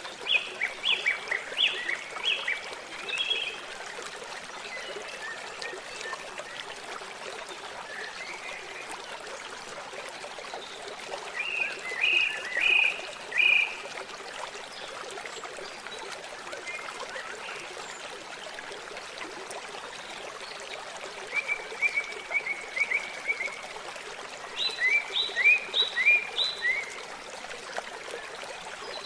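Steady trickling water, with a bird singing four short bursts of quick repeated high notes over it: one near the start, one in the middle, and a fast trill followed by a final phrase near the end.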